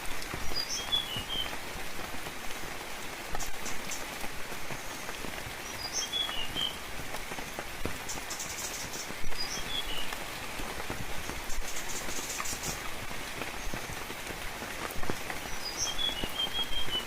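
Steady rain with many individual drops ticking close by. A small bird repeats a short, high chirping phrase about four times, spaced several seconds apart.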